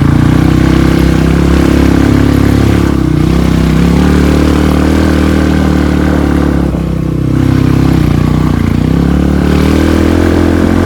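Trail motorcycle engine running under changing throttle, its note easing off around three and seven seconds in and picking up again.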